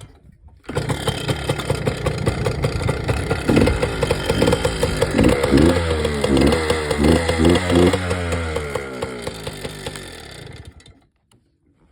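Yamaha PW80's small single-cylinder two-stroke engine on a cold start: it comes in suddenly under a second in and runs with a rattly two-stroke note. It is revved up and down several times in the middle, then dies away and stops near the end.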